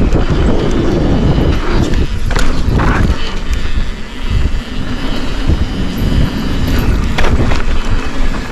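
Mountain bike riding downhill, heard from a bike-mounted or body-worn camera: a steady rumble of wind on the microphone and tyres rolling over the trail, with a few sharp knocks and rattles as the bike hits bumps.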